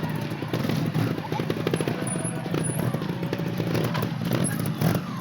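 Small motorbike engine running with a rapid, even firing beat, its speed wavering slightly.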